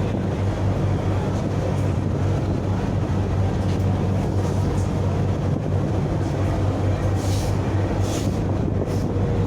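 Ship's engine running on board, a steady low hum with no change in pace.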